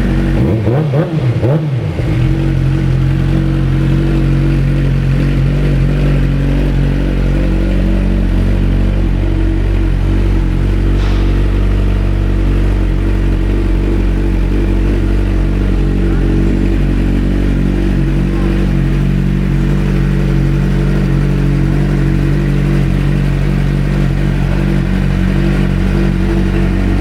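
2007 Suzuki GSX-R600 inline-four engine idling steadily through an aftermarket exhaust, with a brief rise and fall in pitch about a second in.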